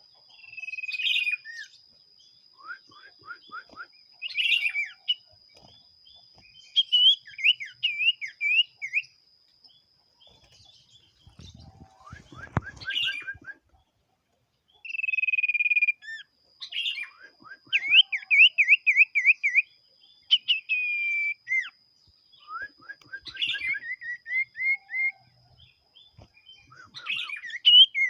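Common iora (cipoh) in full song ('gacor'): phrases of clear whistles and quick down-slurred trills, repeated every second or two with short pauses.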